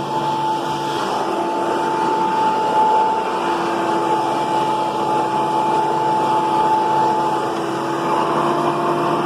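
31-year-old Hoover PowerMax II upright vacuum cleaner running steadily, a constant motor hum with two held tones over an even rush of air, running well for its age.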